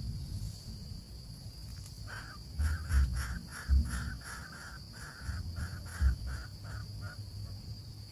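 Baby bird begging: a run of short, harsh calls repeated two to three times a second, starting about two seconds in and stopping about five seconds later. A steady high insect-like drone runs underneath, with a few low thumps.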